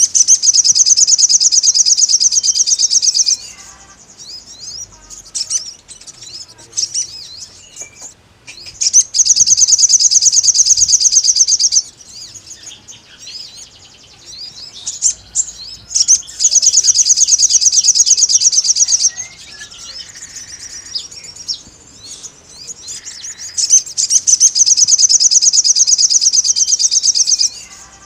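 Sogon bird singing its wild-type song, a song meant to call out a rival. Four long, loud, high trills of rapidly repeated notes last three to four seconds each, with softer scattered chirps in the gaps.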